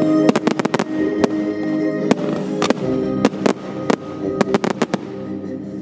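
Fireworks bangs and crackles from a pyromusical display over loud show music. There is a quick run of sharp reports about half a second in, then single bangs every half-second or so, and the music thins out near the end.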